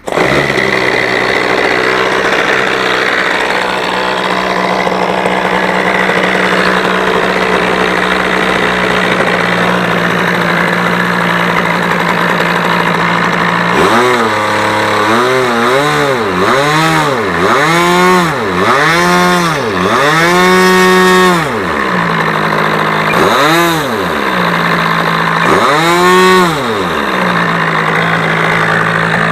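OS 46AX two-stroke glow engine on an RC airplane idling steadily, then revved up and down about six times in quick succession around the middle, and twice more a few seconds later, before settling back to idle.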